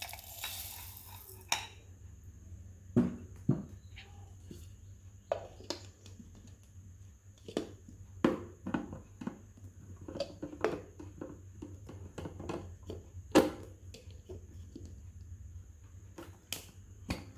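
Scattered clicks and knocks of a stainless steel chutney jar and its lid being handled and fitted, with a short hiss in the first second and a half; the mixer grinder's motor is not running.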